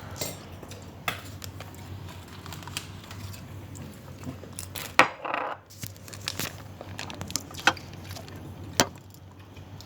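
Scattered sharp clinks and taps of dishes and eating utensils during a meal. The loudest comes about five seconds in and is followed by a brief rustle; another clink comes near the end.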